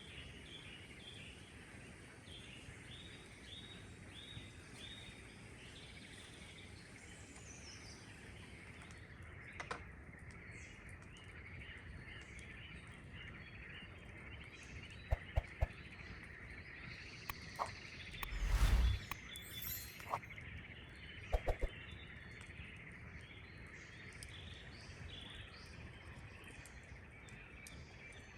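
Outdoor forest ambience: a steady chorus of small chirps, with a bird's falling whistle about seven seconds in. A few sharp clicks or snaps come through the middle, and a brief, loud rumbling rustle comes about two-thirds of the way in.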